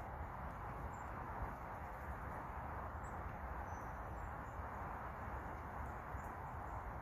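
Steady background hiss with a low rumble, and a few faint, brief, high-pitched chirps from small birds.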